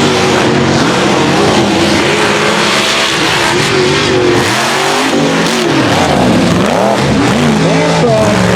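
Mega truck engines revving hard, their pitch repeatedly rising and falling, with deep dips and climbs in the second half.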